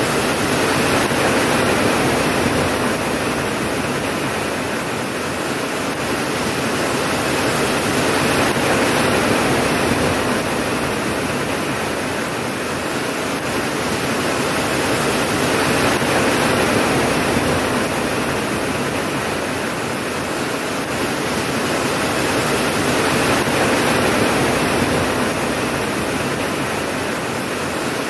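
Steady heavy rain, a dense even hiss that swells and eases slowly every several seconds.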